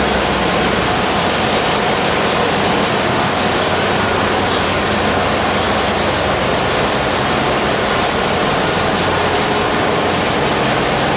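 Bulk carrier engine-room machinery running: a loud, steady din.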